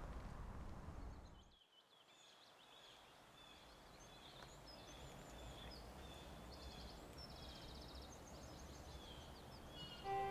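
A low rumble fades out, then woodland birds chirp and sing: many short scattered calls and two fast trills about two-thirds of the way through, over a faint steady low hum.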